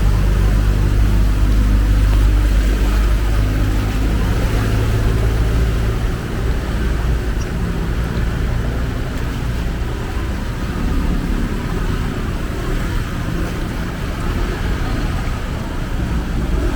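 A vehicle engine rumbling close by over a steady hiss of heavy rain. The low engine rumble is strongest for the first six seconds, then eases.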